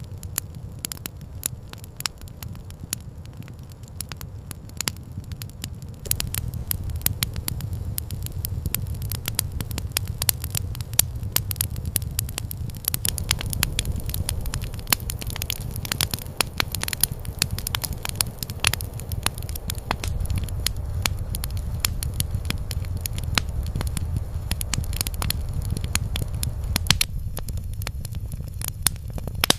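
Campfire crackling: a steady stream of sharp pops and snaps over a constant low rumble.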